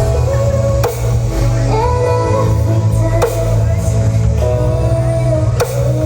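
Loud music with a heavy, booming bass and a melody line played through a huge carnival parade sound system (sound horeg), with a sharp beat hit about every two and a half seconds.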